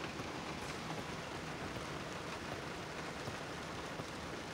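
Heavy rain pouring steadily on a truck, heard from inside the cab.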